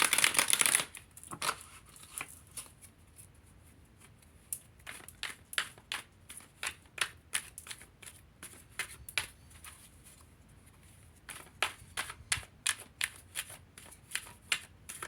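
Tarot cards shuffled by hand: a dense flurry of card clicks in the first second, then a long run of soft, irregular card flicks and taps.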